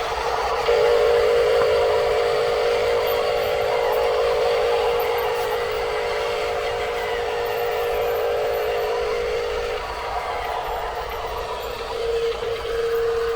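Small electric motor and gearbox of a radio-controlled construction toy whining at a steady pitch with a hiss above it; it cuts out about ten seconds in and starts again briefly near the end.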